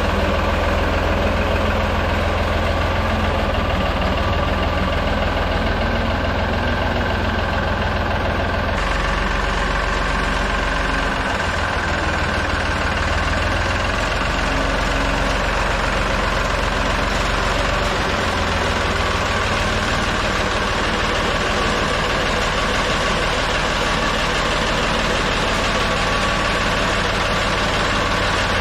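Tractor-loader-backhoe engine idling steadily.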